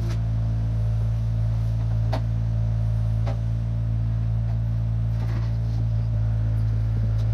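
1972 Chevrolet C50 dump truck's engine running at a steady speed, a constant low drone, with a few faint clicks or knocks over it.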